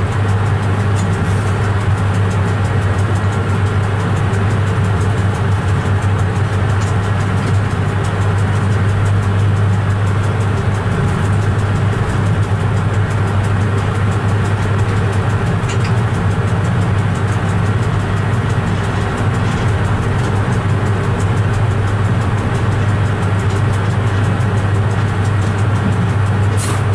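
Steady drone in a train driver's cab as the train moves slowly along the line, with a few faint clicks and one sharper click near the end.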